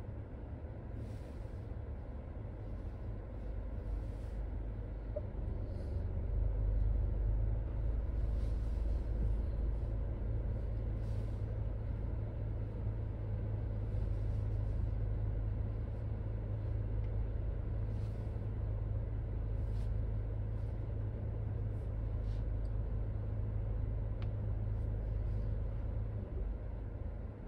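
Proton X70's engine idling, heard inside the cabin as a steady low hum that grows louder about six seconds in and eases off near the end.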